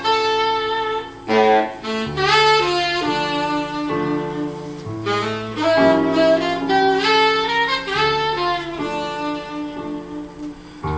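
Instrumental jazz break: a saxophone playing the melody over sustained bass notes, with no singing.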